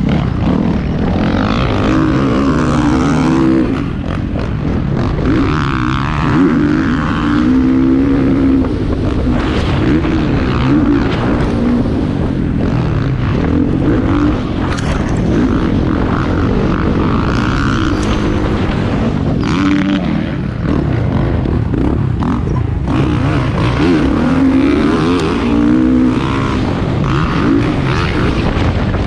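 Motocross motorcycles racing, their engines revving up and down continuously.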